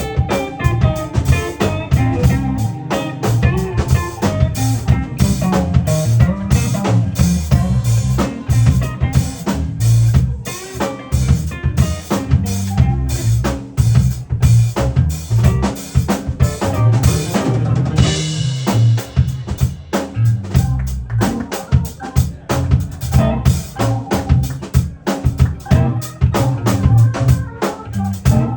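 Keyboards playing a tune over a steady drum-kit beat, with a cymbal-like crash about two-thirds of the way through.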